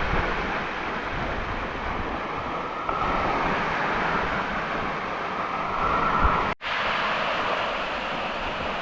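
Steady rush of falling and flowing water from a waterfall and its creek. It drops out for an instant about six and a half seconds in, then carries on.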